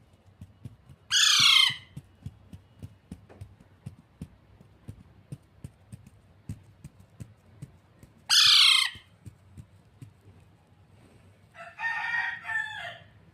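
A pet parrot gives two loud, short, harsh screeches about seven seconds apart. Near the end comes a softer, broken run of chattering calls. Faint light clicks sound in between.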